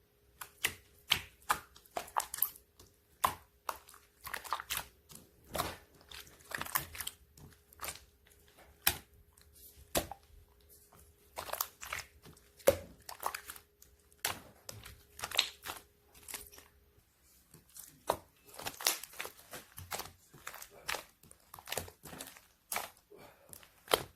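Yellow clear slime being squished and stretched by hand, giving irregular sticky pops and clicks several times a second.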